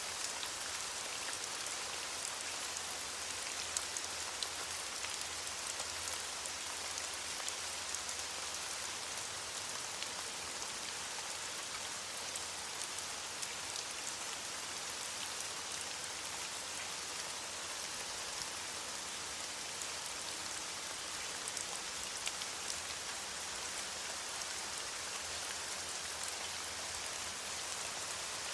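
Steady rain falling on leaves, an even hiss dotted with many small drop ticks.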